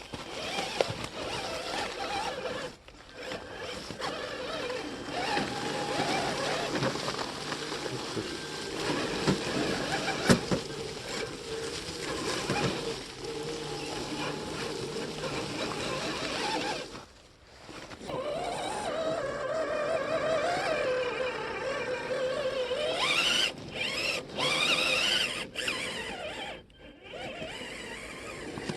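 Electric motor and gearbox of an RC scale truck whining, the pitch rising and falling with the throttle, with scattered clicks and rattles. The sound drops out briefly about 17 seconds in and again near 27 seconds.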